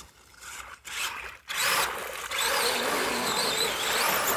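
Redcat Everest 10 RC mega truck's electric motor whining under throttle as its tires churn through mud: a few short bursts at first, then steady hard throttle from about a second and a half in, the whine wavering up and down in pitch.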